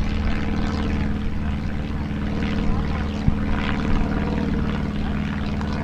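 A motor running steadily, a continuous drone with a low hum under a noisy hiss.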